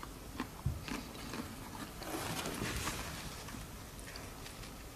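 Soft wet clicks and smacks from eating saucy, shell-on Cajun garlic-butter shrimp by hand, with scattered short clicks and a soft wet rustle about two seconds in.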